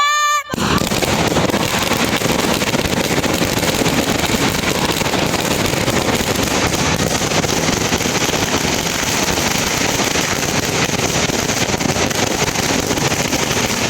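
Audience applauding, a dense, steady clatter of many hands that starts about half a second in as the children's singing ends.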